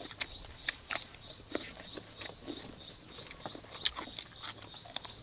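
Several people chewing and biting into meatballs and raw cucumber slices: an irregular run of wet mouth clicks, smacks and small crunches.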